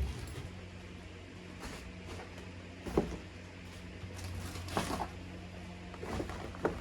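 A steady low hum, with a few light knocks or clicks: the sharpest about three seconds in, and smaller ones near five seconds and near the end.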